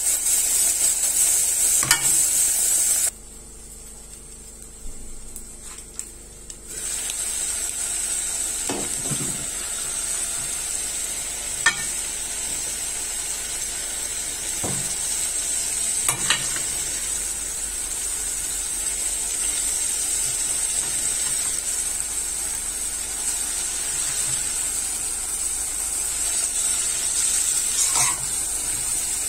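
Soup and oily sauce sizzling as they fry in pots, with a spoon stirring and now and then knocking or scraping against the pot. About three seconds in, the sizzle drops away for a few seconds before returning.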